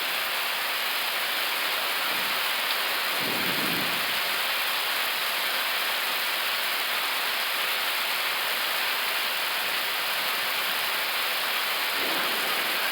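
Steady hiss of an Airbus A321neo flight deck in flight: airflow and air-conditioning noise at an even level, with no change.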